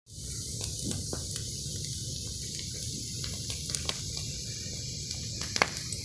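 Bonfire of very wet wood burning: a steady hiss with scattered crackling pops, the loudest near the end.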